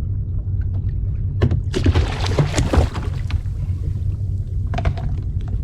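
Water splashing for about a second and a half, starting about a second and a half in, as a hooked smoothhound is brought to the side of a kayak and lifted out. A few sharp clicks and knocks follow near the end, over a steady low rumble.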